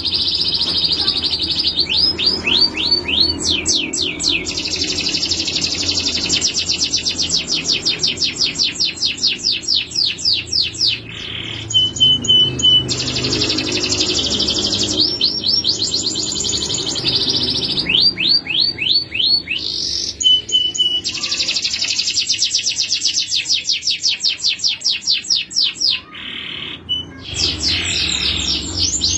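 Male canary singing: long, fast trills of rapidly repeated high notes, one phrase after another with brief pauses between them.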